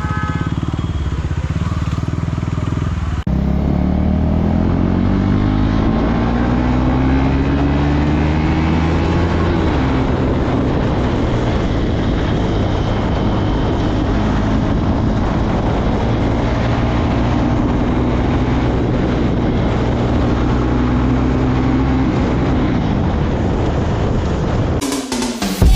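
KTM Duke 390's single-cylinder engine on the move, its pitch climbing as it accelerates, dropping sharply at an upshift about ten seconds in, then building slowly again before easing off near the end.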